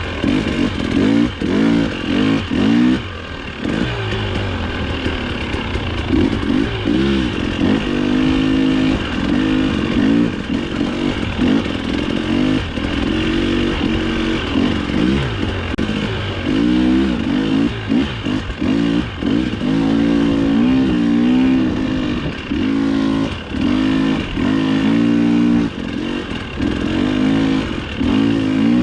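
Dirt bike engine being ridden hard over a trail, its pitch rising and falling over and over as the throttle opens and closes, with rattling from the bike.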